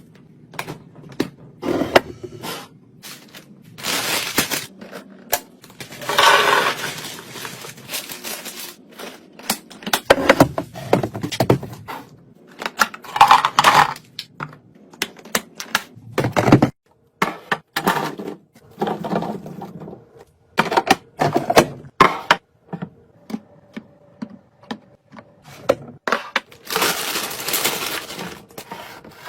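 Snacks and drinks being handled and put into a mini fridge: plastic packaging crinkling in bursts between many separate clinks, taps and knocks of containers being set down.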